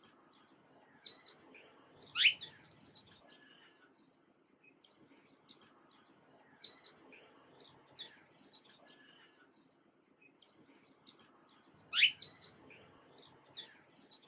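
Small birds chirping, with short high chirps scattered throughout. About two seconds in and again near the end a loud, sharp chirp sweeps upward in pitch, and the same run of calls recurs about ten seconds apart.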